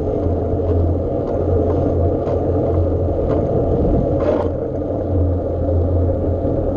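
Steady low rumble of a bike ride, likely wind and road noise, with light clicks or rattles every second or so and a brief scrape about four seconds in.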